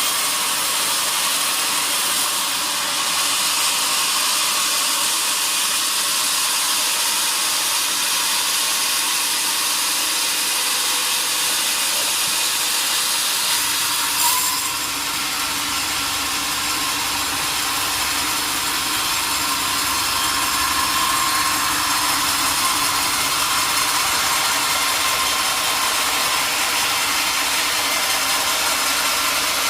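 Sawmill saw cutting through a large log, a steady high hiss of the blade in the wood, with one sharp click about halfway through.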